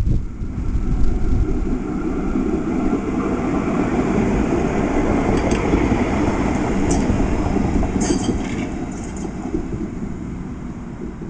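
A tram running on its rails with a steady rumble, with a few brief high-pitched screeches about the middle.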